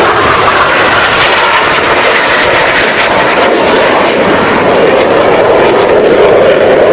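Loud, steady aircraft engine noise, swelling slightly near the end.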